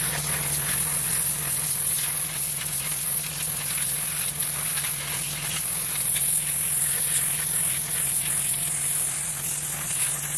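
Gas-engine pressure washer running steadily: a constant engine hum under the hiss of the high-pressure water spray.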